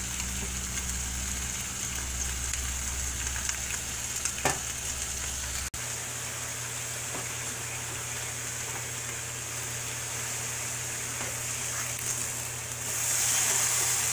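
Chicken thighs sizzling in a skillet, frying in the fat rendering from their skin. The sizzle grows louder near the end.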